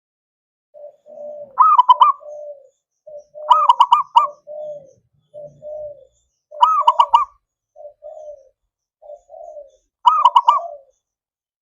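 Zebra dove (perkutut) cooing: four loud phrases of quick, rapidly repeated high notes, a few seconds apart, with softer, lower coos between them.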